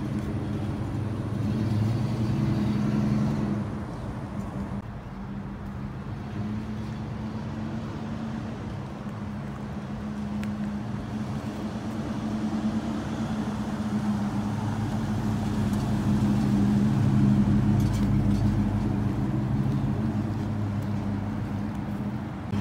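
V8 engine of a red 1971 Oldsmobile Cutlass 442 convertible, running steadily at a low cruise as the car drives slowly by. The low rumble grows louder in the second half as the car comes nearer.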